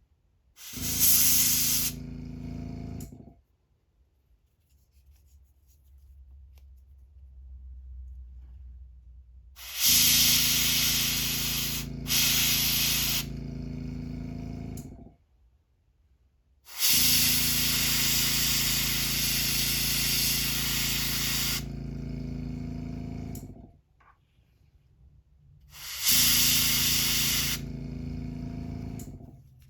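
Airbrush spraying paint onto a crankbait in four bursts of a few seconds each, each a loud high hiss over a low hum that stops with it.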